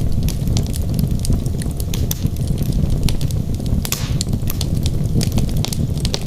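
Wood logs burning in a fireplace: a steady low rumble of flame with frequent, irregular sharp crackles and pops, and a brief hiss about four seconds in.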